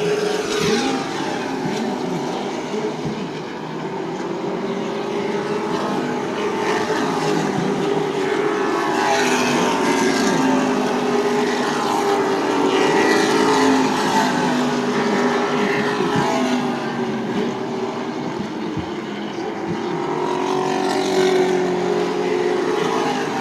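Several super truck racing engines running hard around the oval, their pitch repeatedly rising and falling as the trucks pass by.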